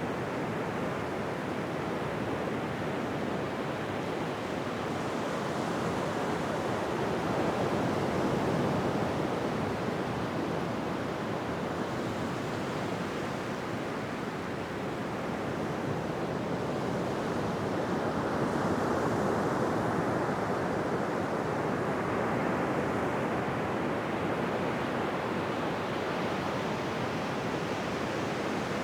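Ocean surf washing on a beach: a steady rush of water that swells slowly, with waves building around a third of the way in and again about two thirds of the way through.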